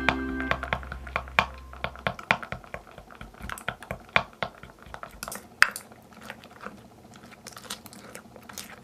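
Slime being squeezed and worked by hand, giving irregular sticky clicks and crackles, several a second, with one sharper pop in the middle. Background music fades out in the first half second.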